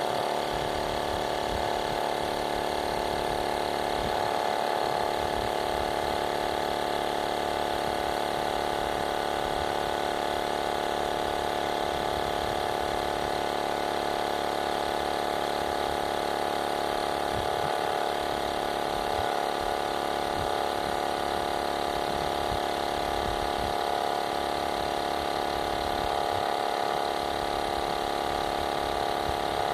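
Cordless portable air compressor running steadily while it inflates to a preset pressure, a constant motor-and-pump hum with several steady tones; a bit noisy.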